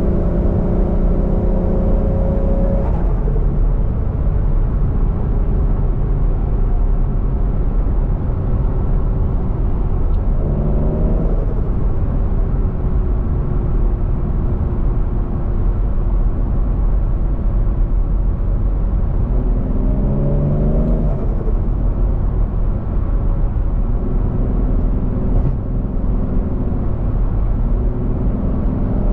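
Turbocharged 1JZ-GTE VVTi inline-six in a swapped Scion FR-S, driven under a steady low rumble: the engine pulls with slowly rising pitch, lets off about three seconds in, and picks up briefly in short rising bursts around ten seconds and twenty seconds in.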